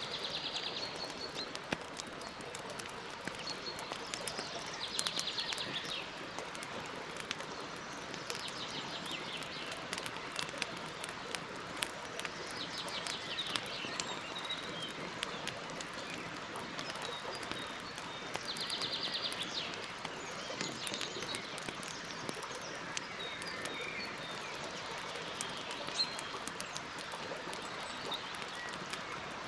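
Campfire crackling, with frequent small sharp pops over a steady hiss. A bird sings short trilling phrases every few seconds.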